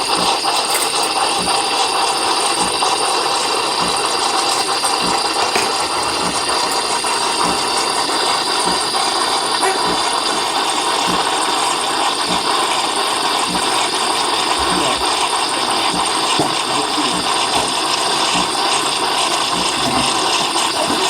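Blender motor running steadily while ice rattles against the jar, a frappé being blended.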